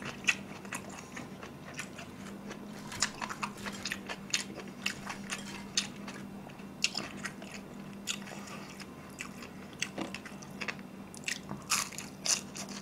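Close-up chewing and crunching of crispy fried glutinous-rice sweet and sour pork (chapssal tangsuyuk), with frequent irregular sharp crunches and mouth clicks.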